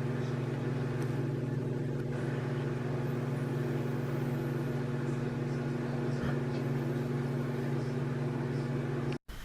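Steady low mechanical drone, like an engine or motor running at constant speed, that cuts off abruptly near the end.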